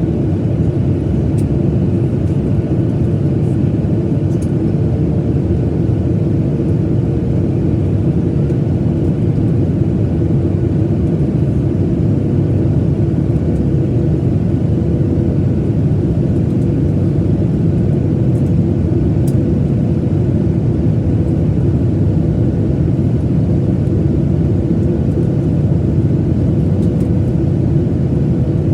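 Steady low roar of a Boeing 737-900ER's CFM56 jet engines and airflow, heard inside the cabin in flight, with a faint steady hum over it.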